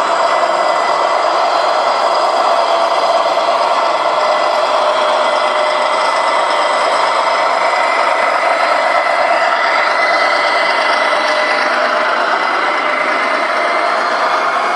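Radio-controlled 1:14 scale model trucks running: a steady mechanical running noise with rattle and a high held whine.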